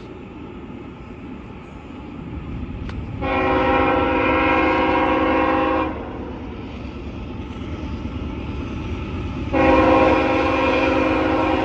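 Diesel locomotive air horn sounding two long blasts for a road crossing, the first about three seconds in and the second starting near the end, each a steady multi-note chord. Beneath them, the low rumble of the approaching train grows louder.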